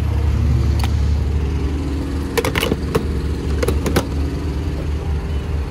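Car engine idling with a steady low hum, with several sharp clicks between about two and four seconds in.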